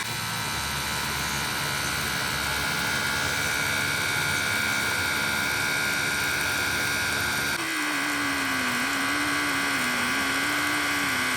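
Steady whine of electric workshop machinery, with an abrupt change about seven and a half seconds in, after which a lower wavering hum joins.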